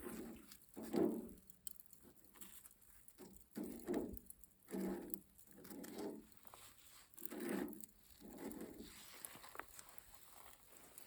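A person chewing food close to the microphone: soft, irregular mouthfuls about once a second, the loudest about a second in.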